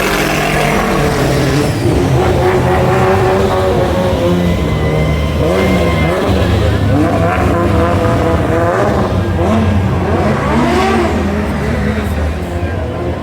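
Car engines running and revving, several at once, over a steady low rumble.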